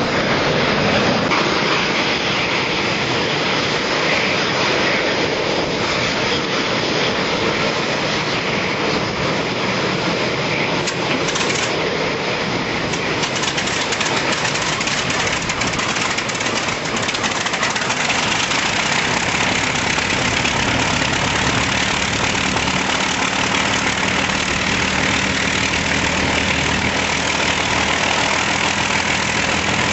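Rolls-Royce Merlin V12 piston engines of an Avro Lancaster running on the ground during an engine run. The sound is a dense, steady engine noise, and a low, even engine hum becomes clearer about two-thirds of the way through.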